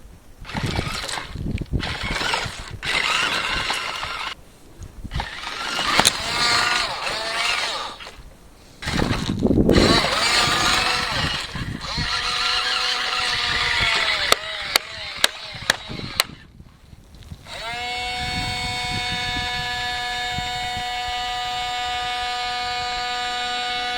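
Small electric motors of a radio-controlled toy wheel loader whining in short spells, rising and falling in pitch, with a few sharp clicks about two-thirds through. A steady, evenly pitched whine is held over the last quarter.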